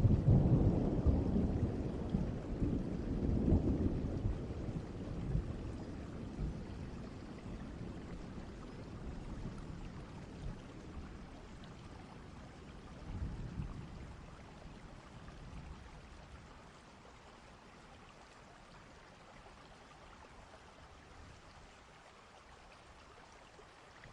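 Distant thunder rumbling and slowly dying away, with a second, softer rumble about halfway through, over a steady hiss of rain that fades lower toward the end.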